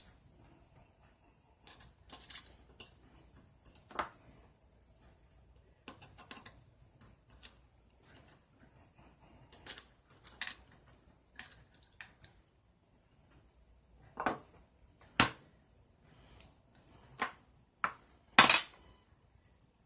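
Small metal tools and parts being handled, giving sharp clicks and taps at irregular intervals, the loudest near the end.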